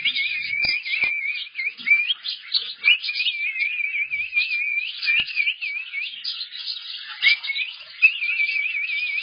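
Male cockatiel singing: a wavering, warbling whistle broken by quick rising chirps.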